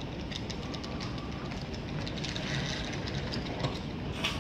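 Low, steady rumble of a train approaching along the platform track, with a hissing swell midway, scattered light clicks, and a sharp click near the end.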